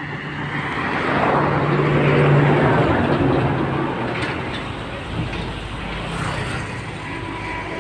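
A motor vehicle passing on the road: engine hum and tyre noise grow louder to a peak about two seconds in, then fade away.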